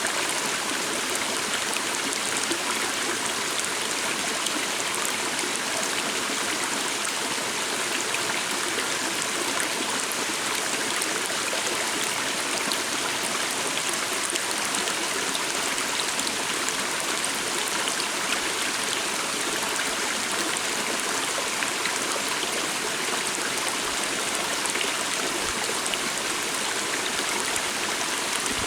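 Stream running steadily: an even, unbroken rush of flowing water.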